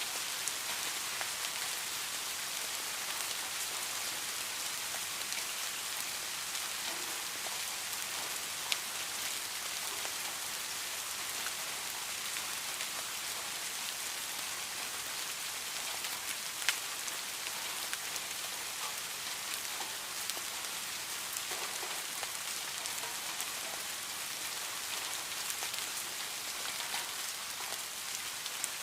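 Rain falling steadily, an even hiss of many drops, with a couple of louder single drops ticking out of it, one about a third of the way in and one a little past the middle.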